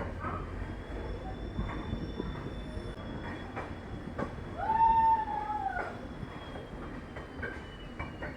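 Passenger train rolling slowly at a railway station, with scattered knocks and a steady rumble. About halfway through comes one loud squeal that rises briefly and falls away.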